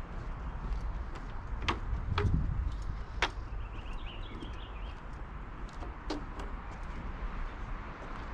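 Footsteps on a park trail, irregular knocks and scuffs over a steady low rumble.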